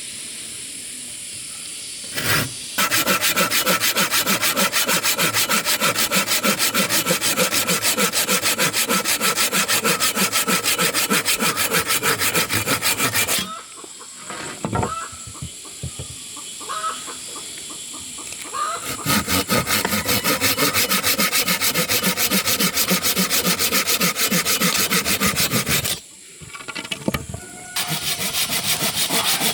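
A saw cutting through wood in fast, steady, even strokes, in three bouts broken by two short pauses that hold a few knocks.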